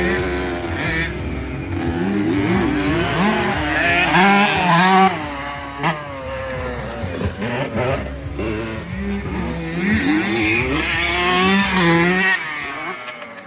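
Dirt bike engines revving, their pitch rising and falling over and over as the throttle opens and closes; more than one bike is heard at once.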